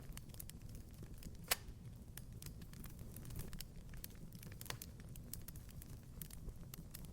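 Wood fire crackling in a hearth: a low rumble of flame with scattered small snaps, and one louder pop about a second and a half in.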